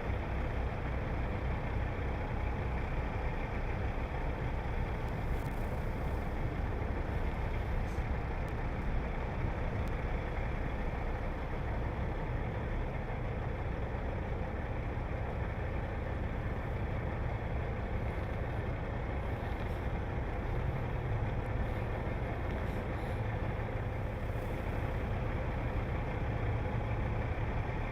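Semi truck's diesel engine idling steadily in reverse gear, clutch out and no throttle, as the tractor-trailer creeps backward, heard from inside the cab.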